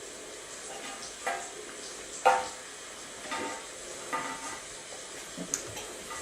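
Steady rain-like hiss from a played thunderstorm recording, with five short, high squeaks over it, the loudest about two seconds in.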